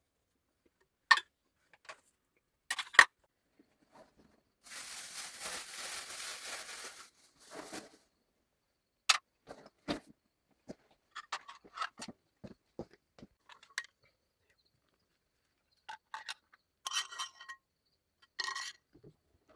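Scattered sharp clicks and knocks of things being handled, with a rough tearing noise lasting about two seconds a few seconds in.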